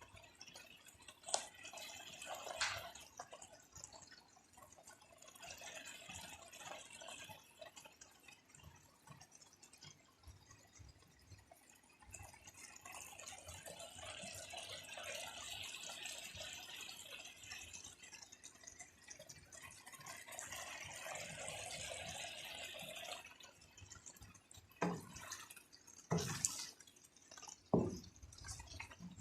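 Chicken in coconut milk bubbling as it simmers in a pan, in stretches that swell and fade. A few sharp knocks near the end.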